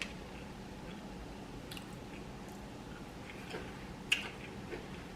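A person chewing food close to the microphone, with a few scattered wet mouth clicks; the loudest comes about four seconds in.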